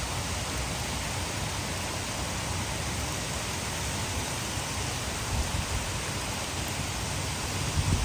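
Heavy rain with water pouring over a hydroelectric dam, a steady, even hiss. A few brief low thumps come near the end.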